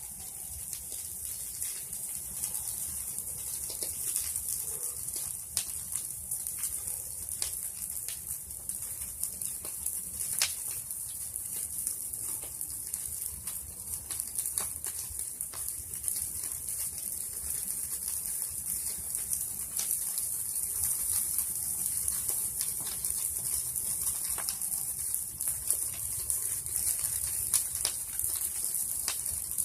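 Bonfire of pruned tree branches burning: a steady high hiss with scattered sharp crackles and pops from the wood.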